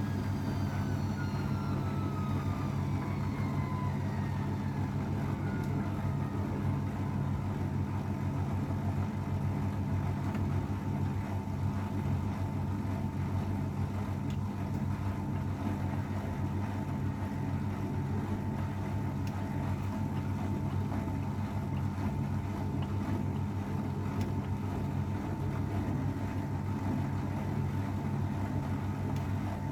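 32-year-old AEG Öko-Lavamat 693 washing machine running with a steady low motor hum. A whine falls in pitch over the first four seconds, then holds steady.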